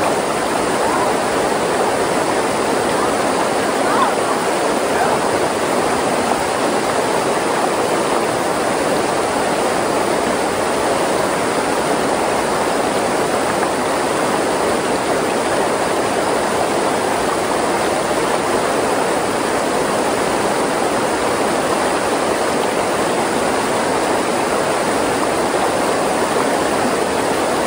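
Creek water rushing steadily over rocks, a loud, even rush.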